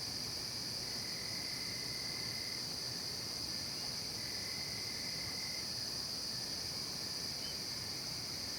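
Steady chorus of night-singing crickets and other insects, a continuous high shrill. A fainter, lower trill comes in twice, each time for about a second and a half.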